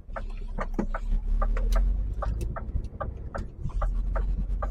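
HGV engine running with a steady low rumble inside the cab while the lorry turns, overlaid by a quick, irregular series of short sharp clicks and ticks.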